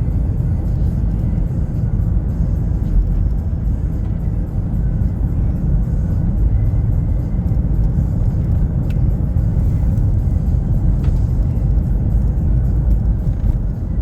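Steady road and engine rumble of a car being driven, heard from inside the cabin, with music playing underneath.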